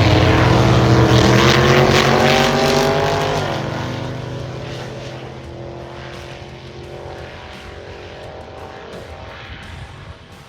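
Drag racing car launching at full throttle. The engine's pitch climbs for about three seconds, drops suddenly at a gear change about three and a half seconds in, then fades as the car pulls away down the strip.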